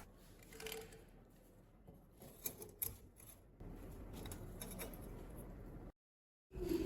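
Small metal typewriter parts being handled, giving scattered light clicks and rubbing. A steady faint noise joins in partway through.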